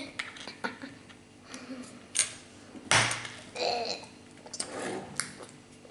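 Plastic construction-kit pieces clicking and knocking as they are handled and snapped together. There is a sharp click about two seconds in, a louder one at about three seconds, and lighter taps near the end.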